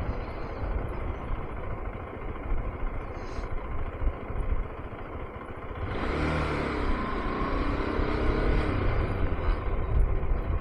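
KTM 390 Adventure's single-cylinder engine running at low speed with wind noise over the rider's microphone; about six seconds in the engine note rises for a few seconds as it speeds up.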